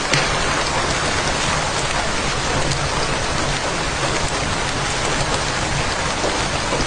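Steady, heavy rain falling, a dense even hiss with scattered drop ticks.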